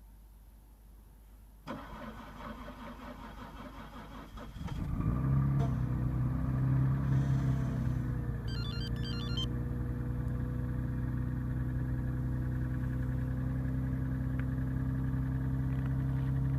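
Toyota Crown JZS155's 2JZ 3.0-litre straight-six being started at −25 °C. The starter cranks for about three seconds, then the engine catches and settles into a steady fast cold idle. A short electronic beeping sounds briefly midway.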